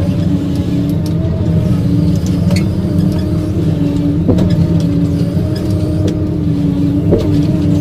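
Forestry harvester's engine running steadily, with a held whine that steps slightly in pitch now and then and a few sharp clicks.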